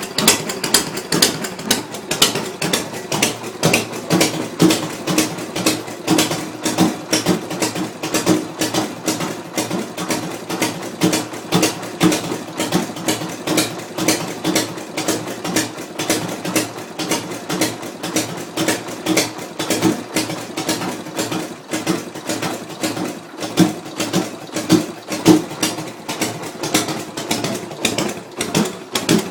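1980 Harley-Davidson FLT Shovelhead V-twin engine running at a lumpy idle, its firing pulses uneven in strength. The engine has just been brought back to life after sitting.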